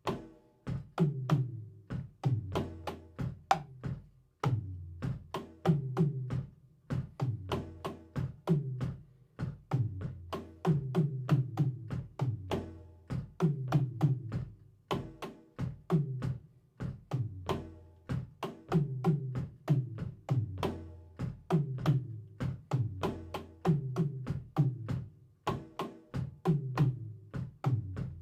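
A drum kit played in a steady, repeating groove: many sharp stick hits over deeper drum strokes that come round about once a second.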